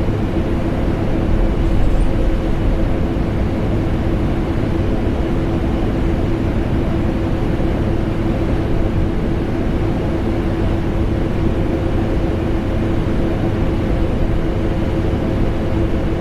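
Vacuum cleaner running steadily, mixed with air conditioner noise: a constant whooshing rush with a steady hum under it.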